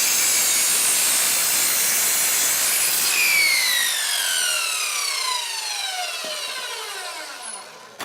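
Cheap Harbor Freight electric power saw cutting through a 2x4. About three seconds in the cut ends and the trigger is released, and the motor coasts down with a falling whine, stopping near the end.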